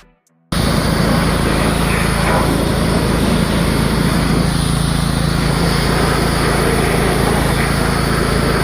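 A small petrol engine running steadily under a constant hiss, starting abruptly about half a second in and cutting off sharply at the end.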